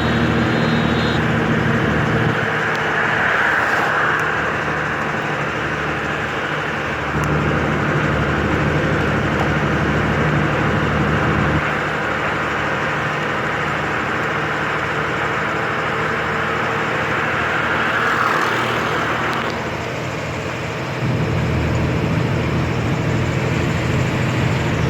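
Truck engine running under way with road noise, its note stepping to a different pitch several times. Two brief swells of rushing noise come a few seconds in and again near the end.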